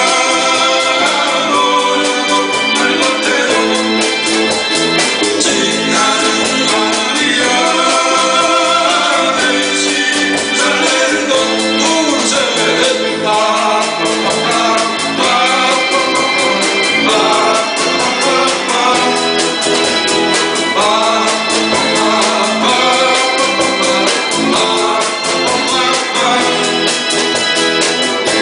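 Live band playing a Korean 7080-era pop song: a singer's melody over sustained band accompaniment, continuous throughout.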